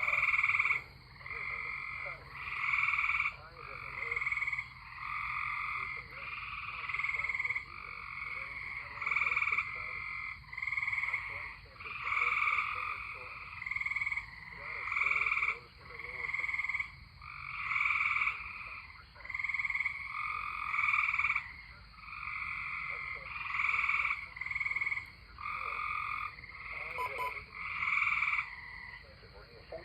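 A chorus of tree frogs calling: many overlapping trilled calls of about a second each, one after another without a break.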